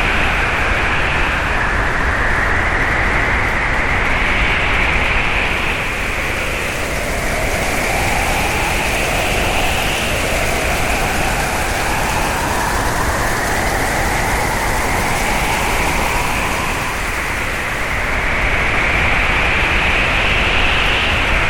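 Hurricane wind howling: a loud, steady roar with whistling tones that slowly rise and fall, each swell lasting several seconds.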